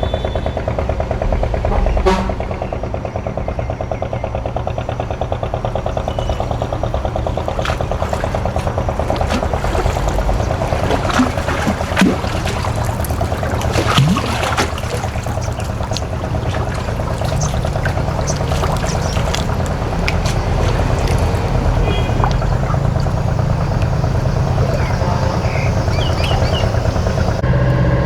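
A boat's engine running steadily, with water pouring and splashing over it. Scattered knocks come mostly in the middle.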